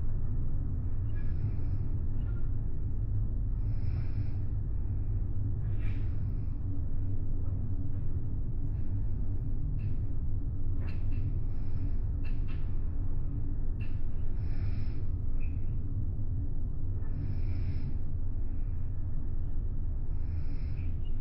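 Steady low rumble of the ferry's engines and hull under way, heard from inside a cabin, with short irregular higher-pitched noises and a few light ticks on top.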